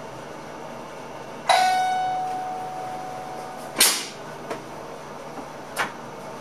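A single bell stroke in the train cab rings out for about two seconds, followed by a sharp clack and a few lighter clicks.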